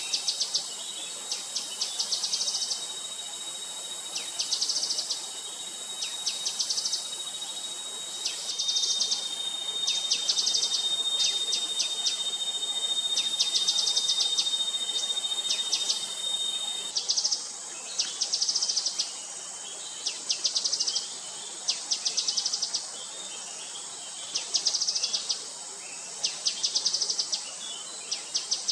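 Gray-headed canary-flycatcher calling: short, high, rapid trills repeated about once a second, over a steady high hiss of insects. A steady high whine joins for several seconds in the middle.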